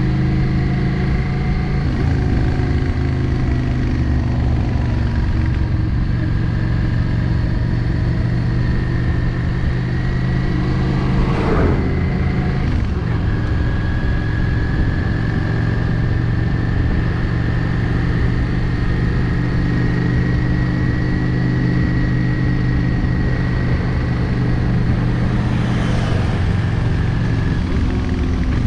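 Yamaha XVS 650 Drag Star's air-cooled V-twin running steadily while riding along the road, with a brief rushing sound about eleven seconds in.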